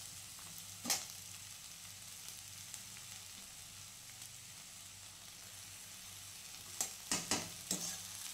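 Chopped spring onions and green chillies sizzling steadily in hot mustard oil in a kadhai. A spatula stirs and scrapes the pan once about a second in and in a quick run of several strokes near the end.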